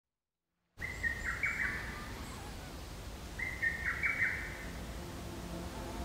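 After a brief silence, a songbird sings the same short phrase of clear notes twice, about two and a half seconds apart, over a low steady outdoor hum.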